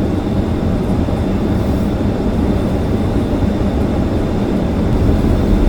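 Steady low rumble of a car being driven, engine and road noise heard from inside the car.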